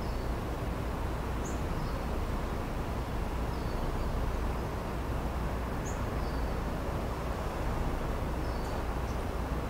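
Outdoor ambience: a steady low rumble of distant city noise, with a small bird giving short, high, downward chirps every second or two.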